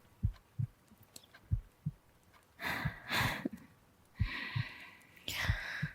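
A slow heartbeat, heard as soft low double thumps (lub-dub) repeating about every second and a third, with a breath and a long breathy exhale over it in the second half.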